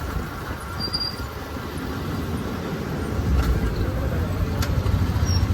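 Motorcycle running on the move: a steady low rumble of engine and road noise that grows somewhat louder in the second half.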